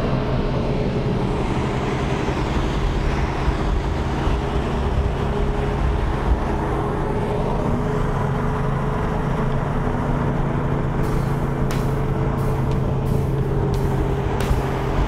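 A car engine running at a steady speed with road rumble, as a car cruises along; a few sharp clicks come in over the last few seconds.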